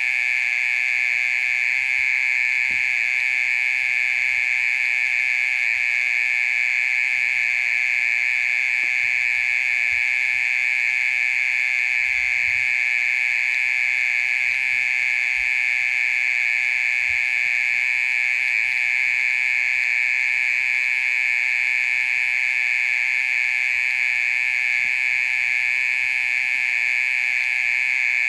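Oriental mole cricket's unbroken trilling song, a loud steady buzz.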